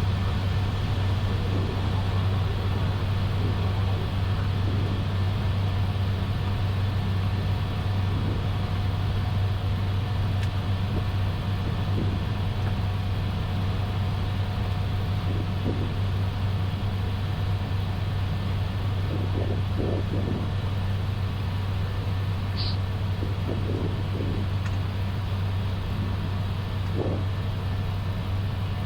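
Steady flight-deck noise of an Airbus A320 in its climb after takeoff: engine and airflow rumble with a strong low hum, and a few faint short sounds now and then.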